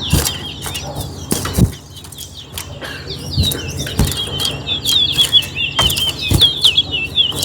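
Twa-twa (large-billed seed finch) singing a fast, twittering run of chirps, with repeated sharp knocks.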